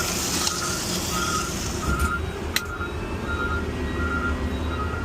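Heavy vehicle's reversing alarm beeping steadily, about one short beep every 0.7 seconds, over the low rumble of a running diesel engine. A hiss fades out about two seconds in, and a single sharp click comes about halfway through.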